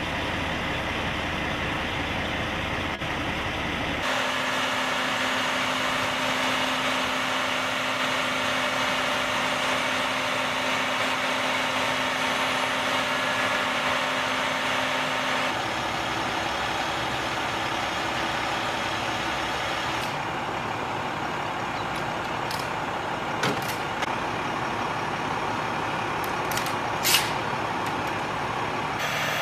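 Heavy machinery engine running steadily, with the sound changing abruptly a few times and a couple of short sharp clicks near the end.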